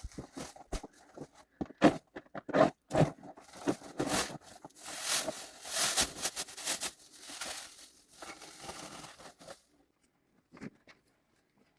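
Crinkling, crunching handling sounds with sharp snaps, thickening into a longer spell of rustling from about five to nine seconds in, then quiet apart from one knock near the end.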